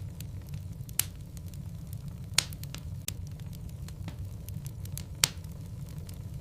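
Logs burning in a fireplace: a wood fire crackling with many small ticks and three louder sharp pops, over a low steady rumble.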